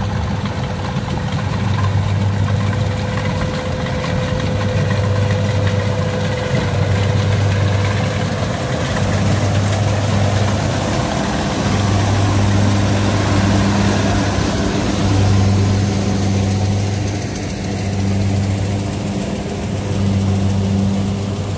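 Kubota combine harvester's diesel engine running steadily with a low, even hum.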